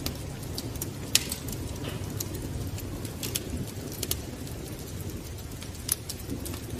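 Wood fire crackling: irregular sharp pops and snaps over a low steady rumble, the loudest pop about a second in.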